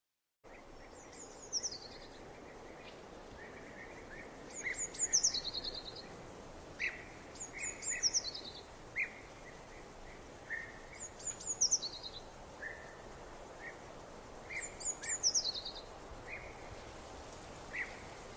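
Birds singing over a steady background hiss: one bird repeats a short, high, falling phrase about every three seconds, with softer chirps between. It begins about half a second in.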